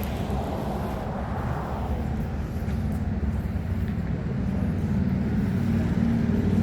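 Outdoor traffic noise: a motor vehicle's engine running nearby, growing louder toward the end.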